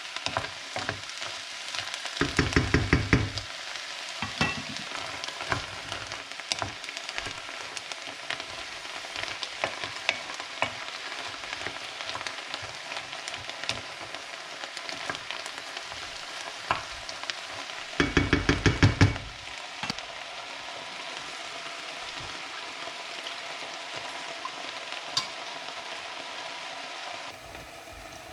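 Diced peppers, onions and garlic sautéing in olive oil in a Dutch oven on high heat: a steady sizzle with scattered crackles as they are stirred. Twice, once near the start and once about two-thirds in, comes a louder burst of rapid knocks lasting about a second. The sizzle drops a little just before the end.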